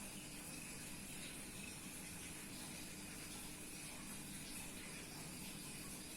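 Steady background hiss with a faint low hum, without distinct calls or knocks.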